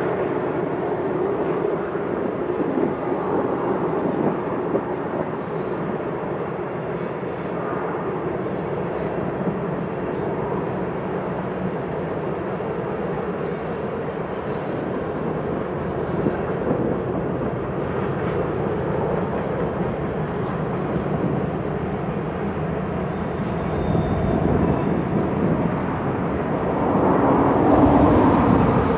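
BNSF freight grain train running: a steady rumble of diesel locomotives and rolling cars that swells louder near the end.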